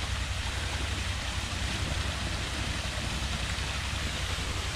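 Steady rush of water pouring out of a partly clogged pond overflow drain pipe, with wind rumbling on the microphone.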